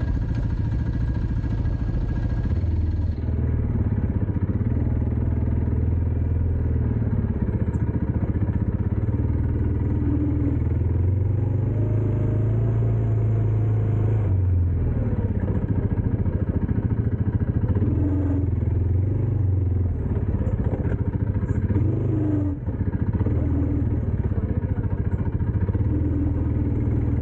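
Dirt bike engine running under way, its pitch rising and falling with the throttle: it climbs from about ten seconds in and drops back at about fourteen seconds.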